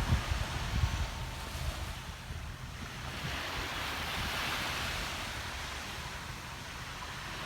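Sea waves washing, with wind buffeting the microphone. The wash swells about three seconds in and eases off toward the end.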